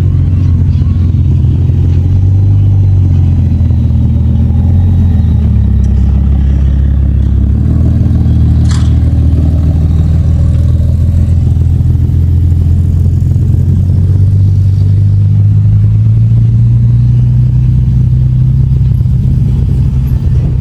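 Classic car engines running loud and deep as the cars drive out, the pitch rising and falling with the throttle. A brief sharp sound comes about nine seconds in.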